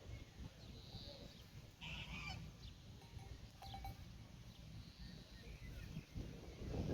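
Pastoral farmyard ambience: a short harsh farm-animal call about two seconds in, with a few faint bird chirps over a low rumble.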